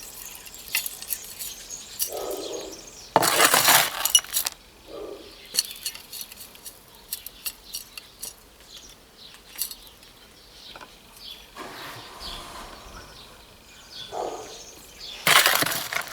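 Light metallic clinks and clicks from bonsai tools and wire being handled while a small tree is wired, with two louder bursts of rustling handling noise, about three seconds in and again near the end.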